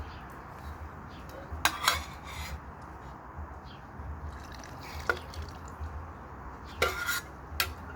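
A handful of short, sharp clinks and clatters of metal cooking utensils and cookware being handled, over a steady background hiss.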